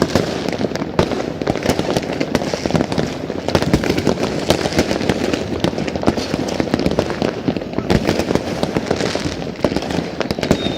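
Dense, continuous barrage of New Year fireworks and firecrackers: many overlapping bangs and crackles with no pause.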